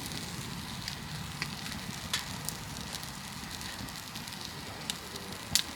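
Birch-wood campfire burning with a steady low rush and scattered sharp crackles and pops, a loud pop about two seconds in and the loudest near the end.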